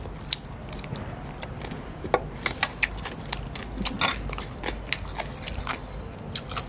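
Close-up chewing of green papaya salad: irregular crunches and wet mouth clicks.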